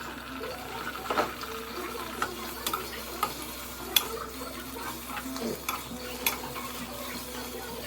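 Food sizzling in a pan while being stirred, the utensil knocking sharply against the pan several times at uneven intervals.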